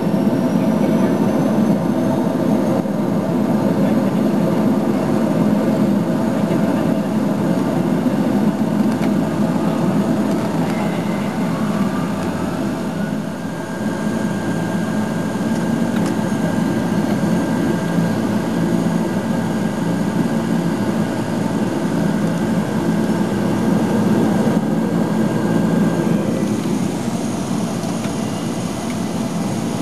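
De Havilland Canada DHC-6 Twin Otter's two PT6A turboprop engines and propellers at high power during take-off, heard from inside the cabin: a loud, steady drone with several held tones, dipping briefly in level about halfway through.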